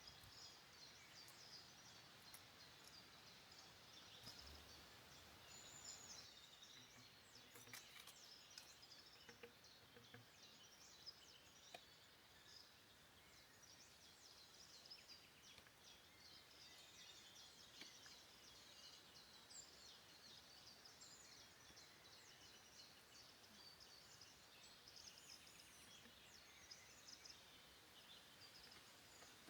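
Faint forest birdsong: many short, high chirps and calls from small woodland birds, scattered throughout, with a few soft ticks.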